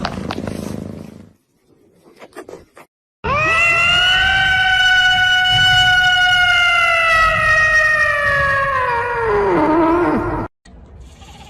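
A cat's long drawn-out yowl, held for about seven seconds, its pitch slowly falling and then sliding down just before it cuts off. Before it comes a short, noisy stretch with a few clicks.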